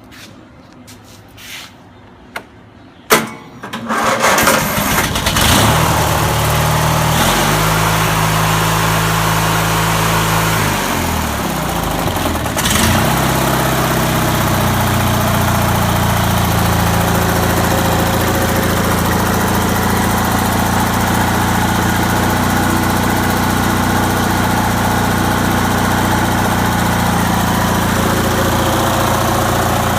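An 18.5 hp Briggs and Stratton opposed-twin vertical-shaft engine starts about four seconds in, after a few clicks, and picks up speed. Its speed changes several times, dipping and climbing back around the middle, then it settles into a steady, even run.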